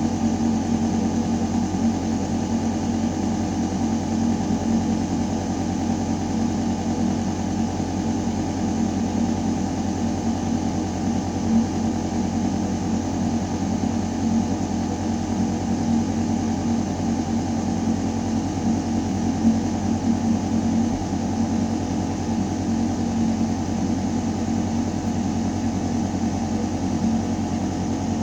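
Building ventilation system running: a steady, deep mechanical hum of air moving through metal ductwork, with a constant tone under an even rush of air.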